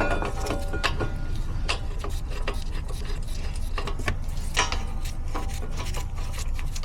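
Rear brakes rubbing and scraping, with short faint squeaks near the start and again about four and a half seconds in, over a steady low rumble and scattered clicks.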